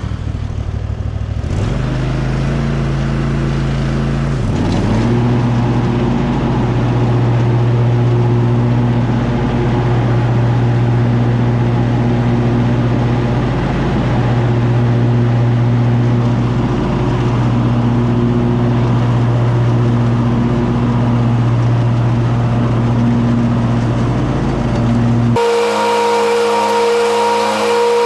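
Cub Cadet Ultima ZT1 zero-turn mower's engine revving up twice, then running steadily at high throttle while mowing grass with freshly sharpened blades. Near the end the sound changes abruptly to a higher, steady whine.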